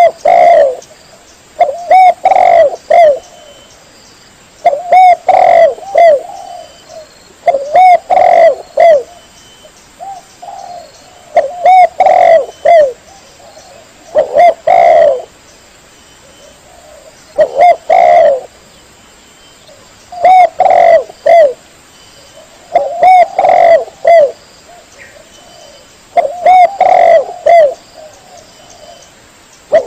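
Spotted dove (tekukur) cooing: a loud phrase of several coos repeated about every two to three seconds.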